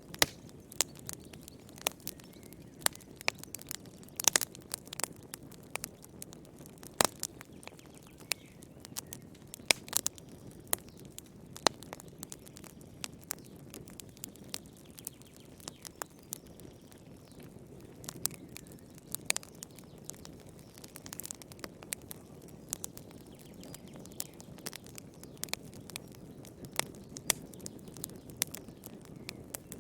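Wood fire in a fireplace crackling: irregular sharp pops and snaps, several a second and some much louder than the rest, over a steady low rumble of burning.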